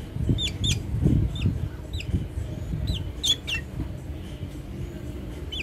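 A black bird giving a series of short, high chirps, each dropping sharply in pitch, about eight of them at uneven spacing.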